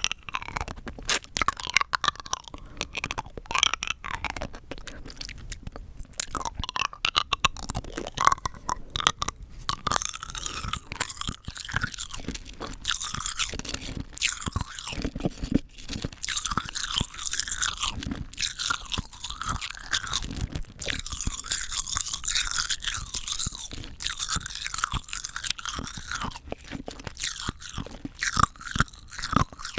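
Rock candy being bitten and chewed close to the microphone: hard sugar crystals cracking and crunching between the teeth. Sharp separate crunches turn into denser, continuous crackling about ten seconds in.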